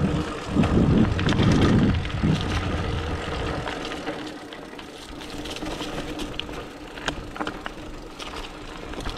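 29er hardtail mountain bike riding along a dirt trail: wind buffets the microphone for the first few seconds, then tyre noise with scattered clicks and rattles from the bike over the ground.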